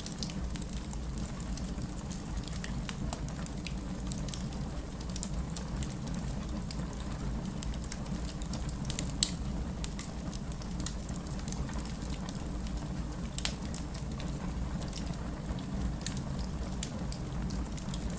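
Burning wood in a fireplace crackling, with scattered sharp pops over a steady low rumble of the flames. One pop about nine seconds in is the loudest, and another stands out a couple of seconds later.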